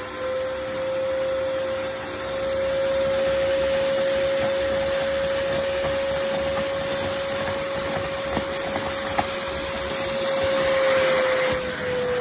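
Upholstery and carpet cleaner's suction motor running with a steady whine over a rush of air, dipping slightly in pitch near the end, with a few faint clicks about two-thirds of the way in.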